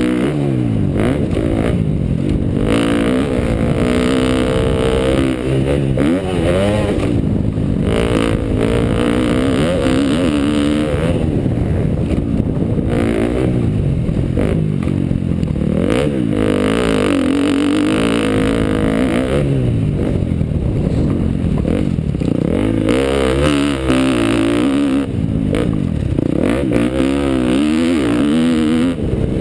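2012 KTM dirt bike engine being ridden, revving up and down over and over as the throttle opens and closes, the pitch rising and falling every few seconds.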